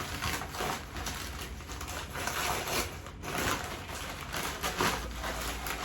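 Packaging rustling and crinkling as items are handled and unwrapped, in a run of short scratchy noises.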